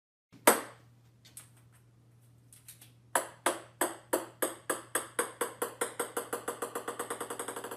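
A small hard object knocking and coming to rest. One sharp knock is followed, a few seconds later, by a run of taps that come steadily faster and fainter, like a bouncing ball settling.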